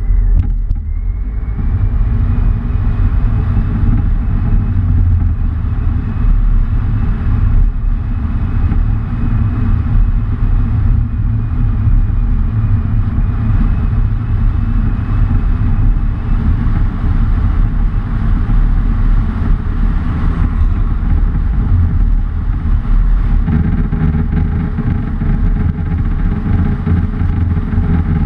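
Motor vehicle driving with a steady low rumble, and a faint thin high whine over it for about the first half.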